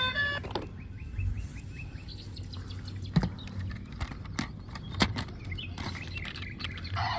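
Short, high, bird-like chirps repeated quickly about a second in, with scattered light clicks and two sharper knocks later.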